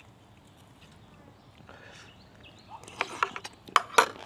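Close-miked eating: a quick run of loud crunches and mouth clicks about three seconds in, as crisp food is bitten and chewed.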